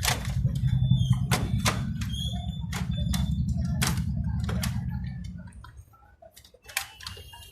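Canon photocopier running, a steady low motor hum with a string of sharp clicks as the paper feeds through, the machine winding down about five and a half seconds in.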